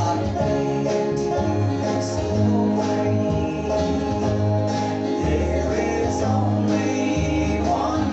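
A gospel group performing live in a country-bluegrass style: guitar accompaniment with singing, over a steady pulsing bass line.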